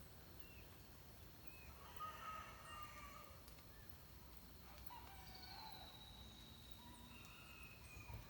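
Faint dawn birdsong: a few short chirps, a drawn-out call of about a second a couple of seconds in, then a long, slightly falling high whistle and another call near the end.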